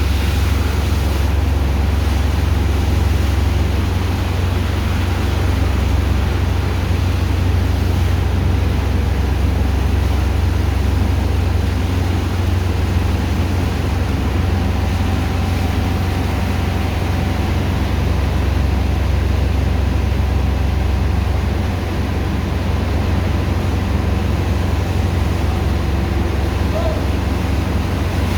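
Sand dredger's pump engine running steadily: a loud, constant low drone with an even rushing noise over it, dipping slightly about three quarters of the way through.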